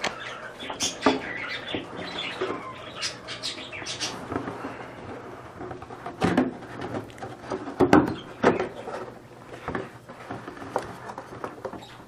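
Pet birds chirping now and then, among scattered knocks, clicks and rustling, loudest around eight seconds in.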